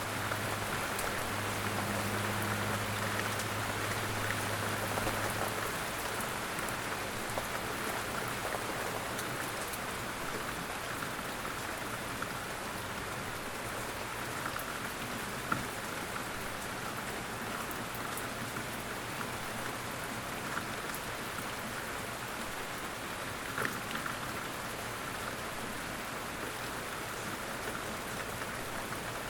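Light rain falling steadily, with a few sharper single drops landing now and then. A low steady hum sits under the rain for the first several seconds and then fades out.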